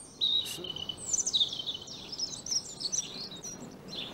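Small birds chirping: a string of short, high, twittering notes, with a longer whistled note near the start.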